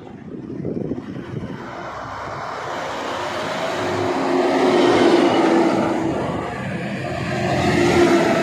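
Heavy road vehicle engine passing close by, growing loud to a peak about five seconds in, with a second swell near the end.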